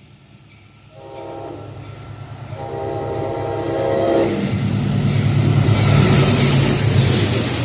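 Diesel passenger train sounding its horn twice, a short blast then a longer one, as it approaches. The engine rumble and wheel noise then grow loud as the train comes up and passes close by.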